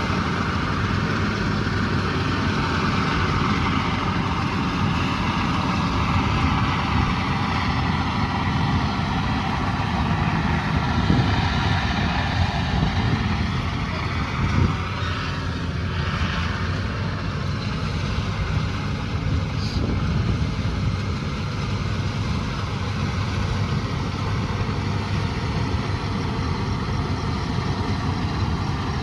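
Diesel engine of heavy rice-harvesting machinery running steadily, its pitch drifting slightly through the middle.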